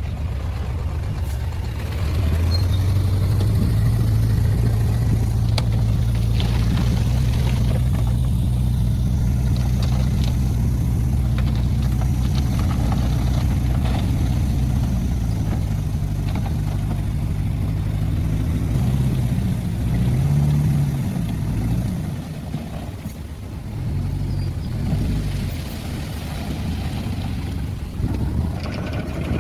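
Heavy diesel engine of earthmoving machinery running under load. It is steady at first, revs higher about twenty seconds in, then drops back to a lower, quieter run, with a few faint knocks and rattles along the way.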